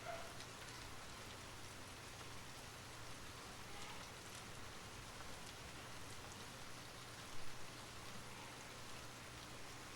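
Steady rain falling, with scattered individual drops ticking, and one brief louder bump about seven and a half seconds in.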